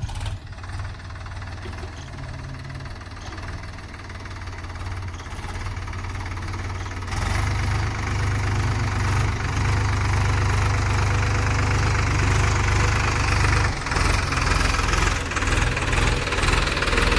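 Sonalika DI 35 Sikander tractor's diesel engine running, getting clearly louder about seven seconds in and staying loud, with its level rising and falling unevenly near the end.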